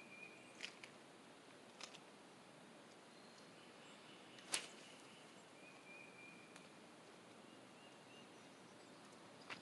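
Near silence outdoors: faint background with a few short, thin, high chirps and several small sharp clicks, the sharpest about halfway through.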